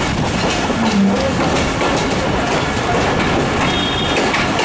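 Passenger train running through a station yard, heard from beside the coach: a steady rush of wheel and rail noise with wind. A brief high whine comes near the end.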